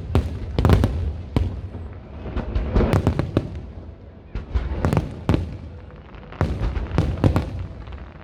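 Fireworks bursting overhead, a rapid irregular run of sharp bangs and cracks, some in quick clusters, with a low rumble rolling between them.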